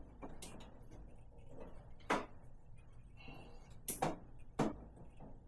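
About four short, sharp clicks and knocks from hands working plastic parts inside a refrigerator's freezer compartment while the ice maker's power connector is plugged in. The loudest click comes about four seconds in.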